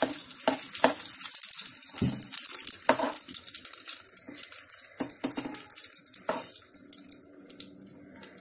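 Oil sizzling in a frying pan under patties of grated potato and egg, with a steel spoon scraping and tapping on the pan as the mixture is spread. The sizzle fades toward the end.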